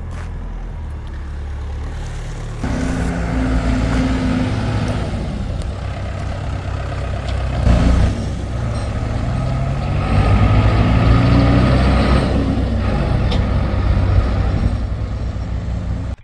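Tractor diesel engine running under load, getting louder about three seconds in and revving higher again around ten seconds in, with a brief loud knock or clatter near the middle.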